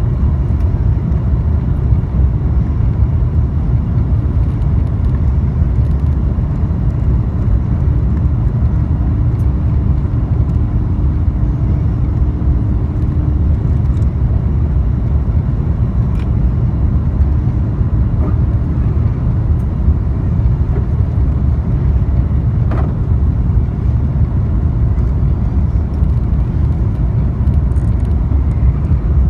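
Steady low roar of an Airbus A350-900's Rolls-Royce Trent XWB engines and rushing air, heard inside the passenger cabin in flight.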